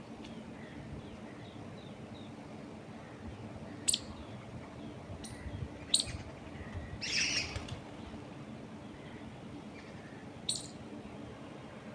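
Wild birds chirping: a few sharp, high, quick down-slurred chirps spread through, a longer harsher call about seven seconds in, and faint small notes, over a steady hiss of wind in the trees.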